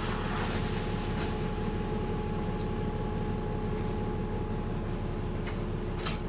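Bus diesel engine running steadily, a dense rhythmic low chuffing with a faint steady whine over it, from a bus with an exhaust leak.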